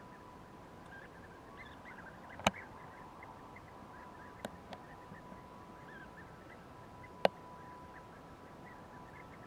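Faint bird chirps, short and repeated, over a thin steady tone. Two sharp clicks stand out, one about two and a half seconds in and one about seven seconds in, with two weaker ticks between them.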